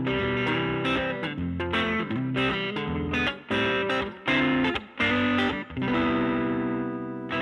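Electric guitar with P-90 pickups played through the gain channel of a Laney Lionheart L5 Studio amp into a 15-inch Jensen Alnico speaker: a run of struck chords and short riffs with brief gaps between them. The last chord is left to ring and fades near the end.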